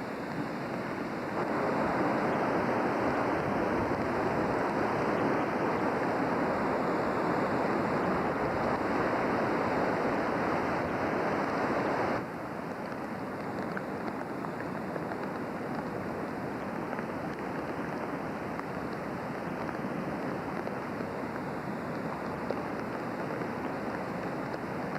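Rushing floodwater of the swollen North Fork Wilson River: a steady wash of water noise that gets louder about a second in and drops suddenly, to a lower steady level, about twelve seconds in.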